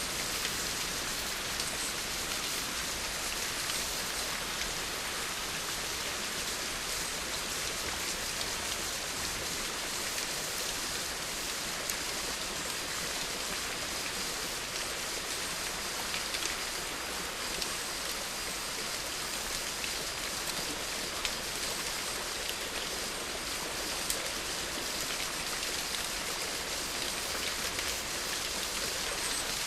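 Steady rain falling, an even hiss of drops with a few individual drop ticks on a surface.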